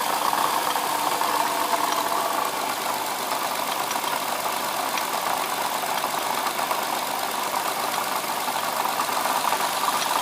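2007 Lexus IS350's 3.5-litre V6 idling, heard close in the engine bay, with a steady rattling, knocking and squeaking from the front of the engine, which the owner suspects is a failing water pump.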